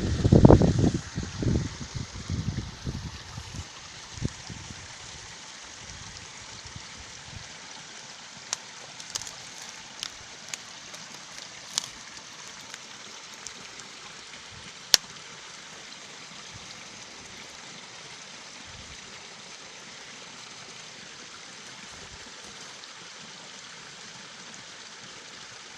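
Small stream running in its deep gully, a steady rush of water. Wind buffets the microphone hard in the first few seconds, and a few sharp clicks come through near the middle.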